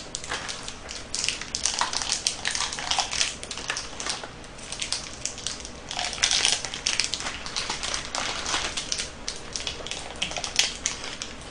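Crunching of KitKat chocolate-covered wafer bars being bitten and chewed, as several pieces go into the mouth one after another, with crinkling of the wrappers being handled.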